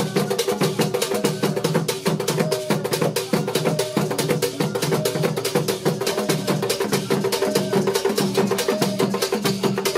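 Percussion music: drums played in a fast, dense rhythm of sharp clicking strikes over low pitched drum tones.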